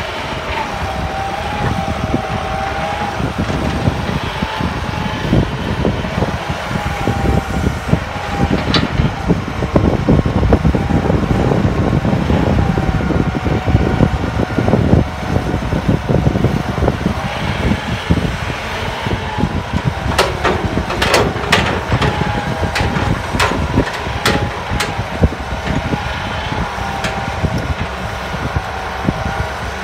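Hydraulic excavator working: its engine runs steadily under load with a wavering whine over the rumble. A run of sharp knocks comes about two-thirds of the way in.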